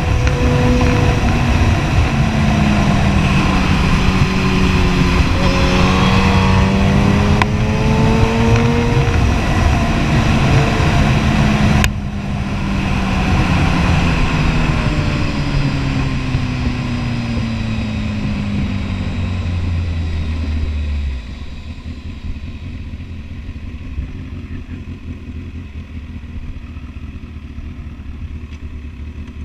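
Kawasaki Ninja ZX-10R inline-four engine under way, its note climbing in steps as the bike pulls through the gears. About twelve seconds in the throttle shuts and the note falls slowly as the bike slows, turning quieter and steady after about twenty seconds.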